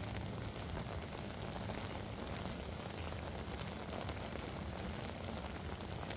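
Steady rain pattering on an umbrella, with a low, even rumble of city traffic underneath.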